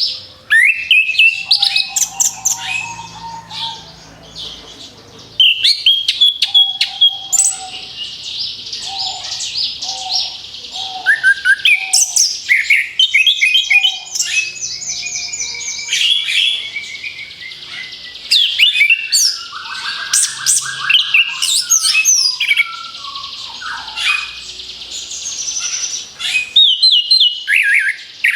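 Orange-headed thrush (anis kembang) singing a long, varied song of quick repeated notes, trills and whistled glides in rapid-fire bursts, broken by a couple of short pauses.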